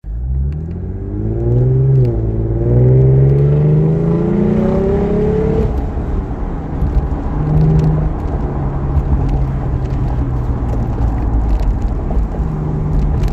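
Lexus IS350's 3.5-litre V6, fitted with a Vibrant resonator, Flowmaster high-flow secondary cats, an F-Sport axle-back exhaust and an F-Sport intake, heard from inside the cabin while accelerating under load. Its note climbs, dips briefly about two seconds in, climbs again, then settles into a steadier drone with road noise, rising once more briefly near the middle.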